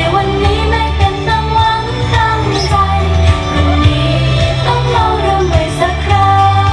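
A female idol group singing a Thai pop song live over a pop backing track with a strong, pulsing bass line.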